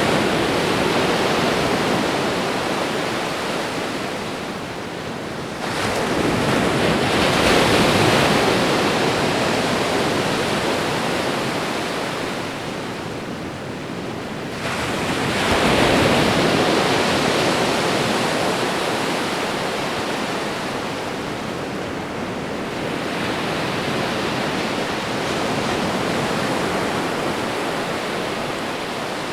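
Ocean waves breaking on a shore: the wash of surf swells with each wave, about every eight or nine seconds, then ebbs.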